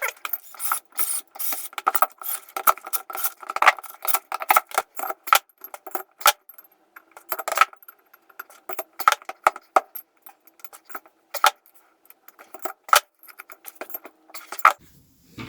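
Steel bolts and a hand tool clinking against steel plates as the bolts are fitted and tightened: an irregular run of sharp metallic clicks, each with a short ring.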